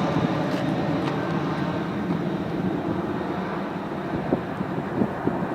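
Boeing 757-200's Pratt & Whitney jet engines rumbling steadily and easing off slowly, with a few gusts of wind on the microphone.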